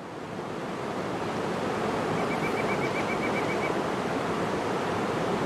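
Waterfall rushing steadily, fading in over the first second or so. About two seconds in, a bird gives a brief faint trill of about ten quick notes.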